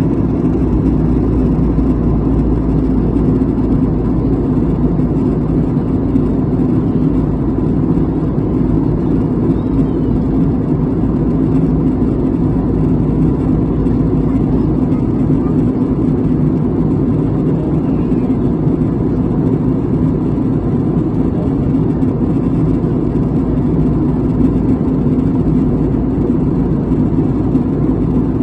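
Steady low mechanical rumble with faint constant tones in it, unchanging throughout.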